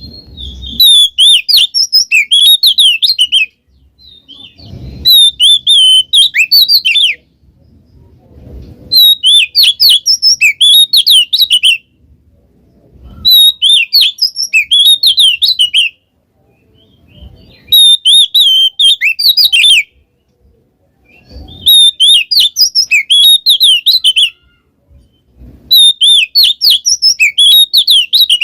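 Oriental magpie-robin (kacer) singing in repeated loud bouts of rapid, varied high whistles and chattering notes. Each bout lasts about three seconds, with a short pause before the next, seven times over.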